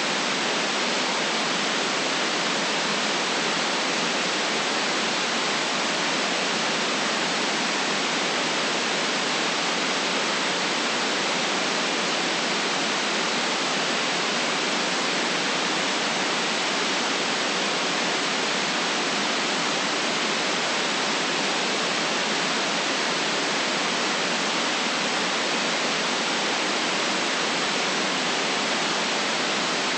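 Steady white noise for sleep: an even, unchanging hiss with almost no deep bass and no top treble.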